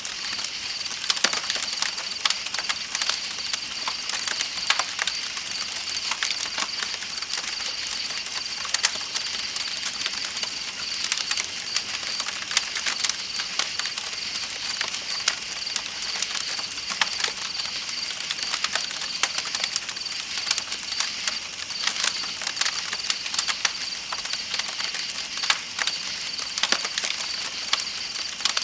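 Campfire crackling with frequent irregular sharp pops, over a steady chorus of night insects chirping at a high pitch and the even hiss of flowing river water.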